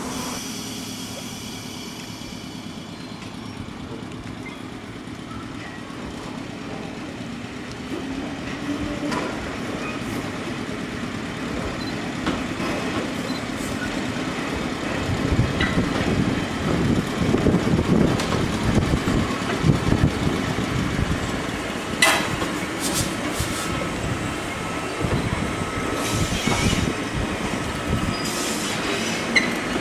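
Ichibata Electric Railway 3000 series electric train cars rolling slowly through a rail yard. A steady low hum gives way to a louder rumble of wheels knocking over rail joints and points through the middle, with sharp metallic clanks a couple of times later on.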